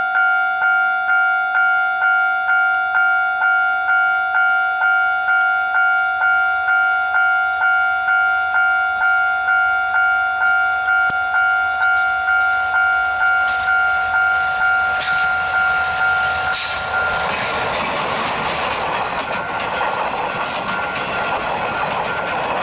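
Japanese level-crossing alarm ringing its two-tone ding about twice a second, then stopping about 16 seconds in as a train passes with a loud rumble and wheel noise.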